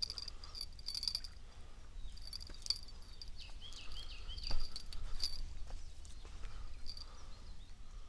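Small birds chirping: short high chirps at irregular intervals, with a few looping whistled notes about three and a half seconds in, over a steady low wind rumble on the microphone.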